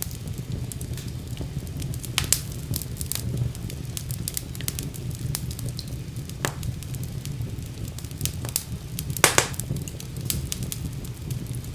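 Wood fire burning in a fireplace: a steady low rumble under frequent irregular crackles and pops, with two louder pops, one about two seconds in and one near the end.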